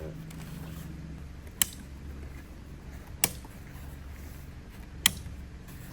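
Three sharp knocks, evenly spaced about a second and a half apart, over a low steady hum.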